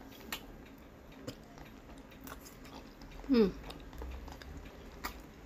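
Close mouth sounds of a person biting and chewing a boiled egg, with faint scattered wet clicks. About three seconds in there is a short hum of the voice that falls in pitch.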